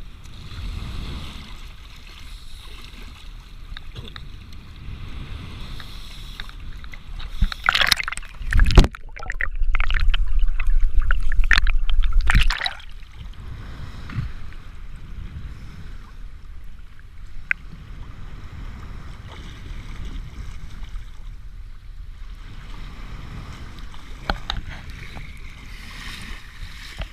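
Sea water splashing and lapping, with a loud low rumble lasting about four seconds near the middle, just after a few sharp splashes.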